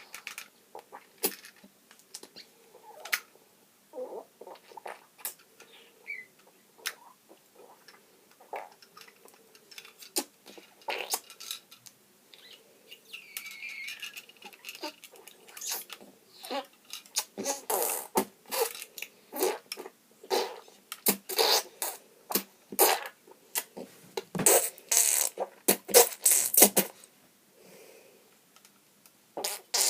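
A child making sound effects with his mouth, sputtering raspberry-like noises in short bursts, as the noise of his Lego robot transforming into a boat. The bursts are sparse at first and come thick and louder about halfway through.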